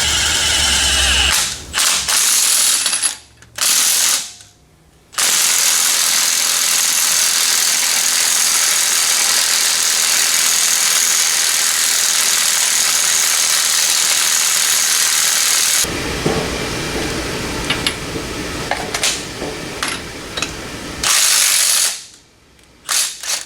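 Power tool running in long bursts: a few short runs, then one steady run of about ten seconds, a lower, rougher stretch of about five seconds and a short final burst.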